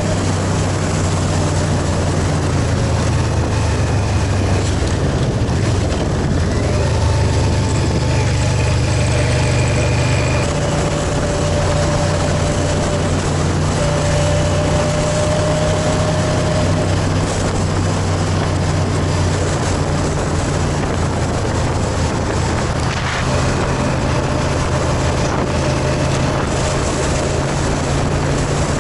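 Motorcycle engine running steadily under way, with wind noise on the microphone; the engine note shifts about ten seconds in.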